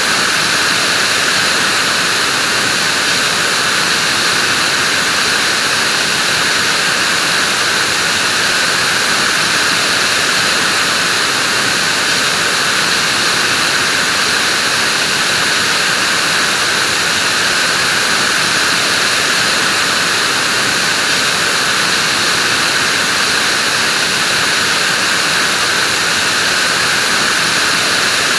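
Vacuum cleaner running steadily: a constant, unchanging high rushing hiss with no pauses or shifts in pitch.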